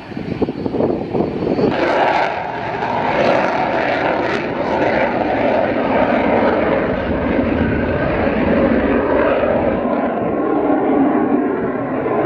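Aircraft engine running loud and steady, swelling about two seconds in, with wind buffeting the microphone.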